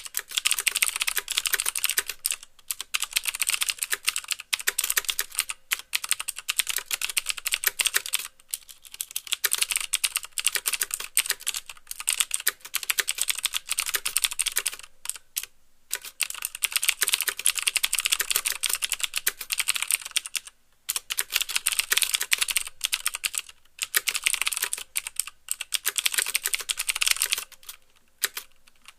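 Fast typing on a mechanical keyboard with clicky Cherry MX Blue switches: a dense run of sharp clicks, with each key also bottoming out with a clack. The typing stops in short pauses every few seconds.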